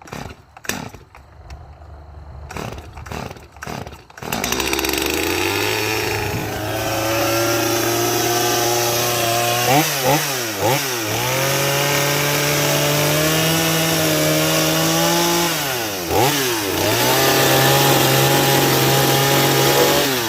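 A few knocks and clicks, then about four seconds in an electric power tool starts and runs steadily under load, cutting into pine wood. Its pitch dips and recovers twice.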